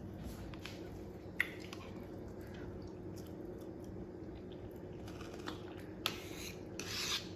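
Faint chewing and mouth sounds of someone eating a bite of omelette stuffed with bacon and topped with crunchy Flamin' Hot Cheetos, with a few short crisp crunches near the end and one sharp click about a second and a half in.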